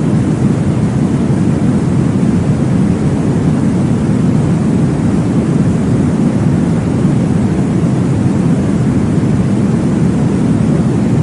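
Steady, deep whooshing noise of a baby-sleep track, low-pitched and unchanging, made to imitate the whoosh of blood flow heard in the womb.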